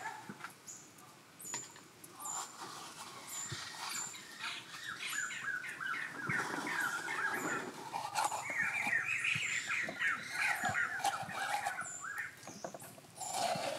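Birds chirping in quick, repeated short calls, with high thin notes over them. The calling grows busier from about six seconds in.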